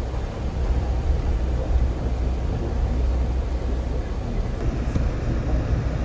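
Wind buffeting the microphone in a snowstorm: a steady low rumble with a rushing hiss above it.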